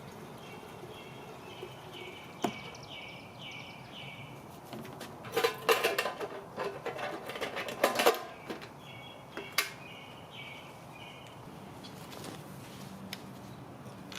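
A run of clattering knocks and clicks from hard objects being handled, lasting about three seconds in the middle, with single sharp clicks before and after. A bird sings in the background, two phrases of quick repeated chirps.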